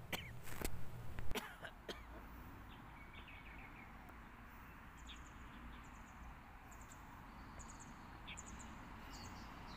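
Faint outdoor ambience with small birds chirping in short, quickly repeated high notes, most of them in the second half. A few sharp clicks and knocks come in the first two seconds.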